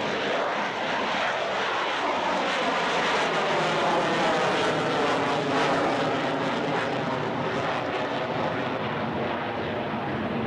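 Fixed-wing aircraft flying past with its engine running, a dense mix of engine tones over a steady rush, the pitch bending as it goes by.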